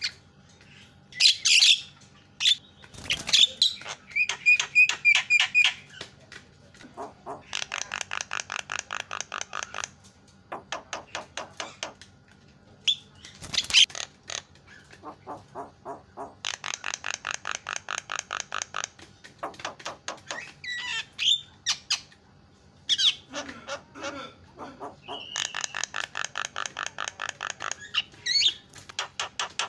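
Javan myna (jalak kebo) calling: harsh squawks and whistled notes broken by three long, fast rattling series of rasping notes, each lasting about three seconds.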